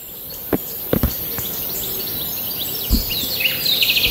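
Small birds chirping and twittering, with a rapid trill near the end, over a steady high hiss. A few low thumps come about half a second, one second and three seconds in.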